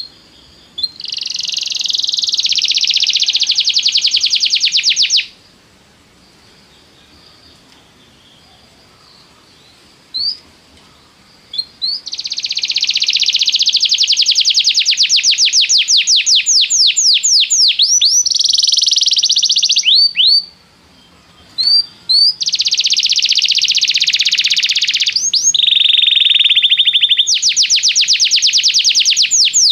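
Domestic canary singing: three long phrases of fast rolling trills, each made of quick repeated notes that change in speed and pitch partway through, with single short chirps in the pauses between phrases.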